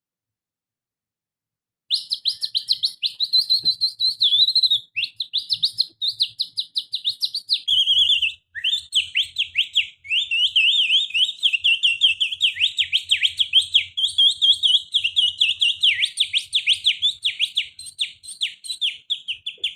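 Canary song imitated by whistling with the little finger: fast chirping trills and quick falling glides, run together in long phrases with a few short breaks. It starts about two seconds in.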